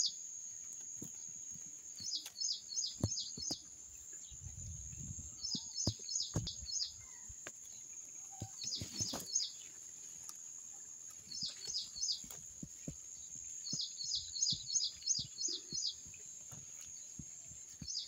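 A songbird repeating short phrases of five to seven quick, high chirps every two to three seconds, over a steady high-pitched whine. Scattered soft knocks and rustles come from the camera being handled among the branches.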